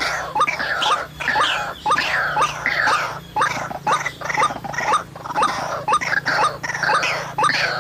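White-breasted waterhen (ruak-ruak) lure call: harsh, croaking notes repeated about twice a second without a break, the call used to draw the birds to a trap.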